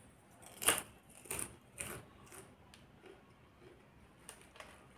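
Crunchy papdi gathiya, a fried gram-flour snack, being chewed: a string of short sharp crunches about half a second apart, the loudest about a second in, thinning out towards the end.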